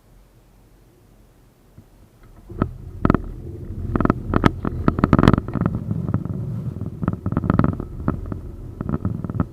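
71-931M Vityaz-M tram. Quiet at first; then, about two and a half seconds in, a loud low rumble of the tram's running gear sets in, broken by a string of sharp, irregular knocks.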